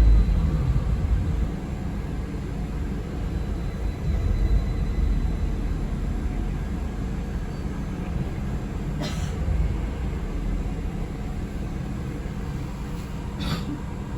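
Cabin noise of a moving city bus: a steady low rumble of the ride, heaviest in the first second or so. There are two brief sharp clicks or squeaks, about four seconds apart, the second near the end.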